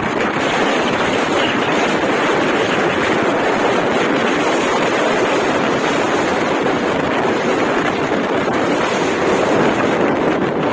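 Cyclone wind blowing hard across the microphone: a loud, steady rushing that does not let up.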